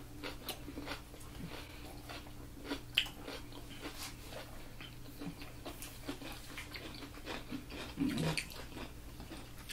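Two people chewing sausage, red onion and rice, with many small wet mouth clicks and smacks and a louder one about three seconds in, over a faint steady low hum.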